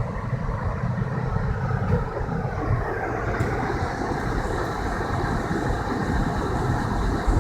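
Car driving on a snowy road: a steady, low rumble of engine and tyre noise.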